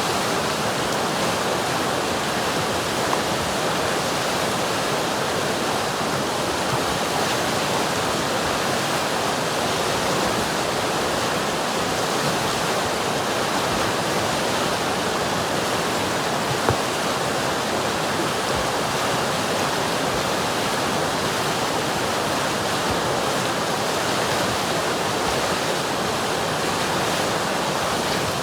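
River water rushing steadily, a continuous even hiss and burble of flowing water.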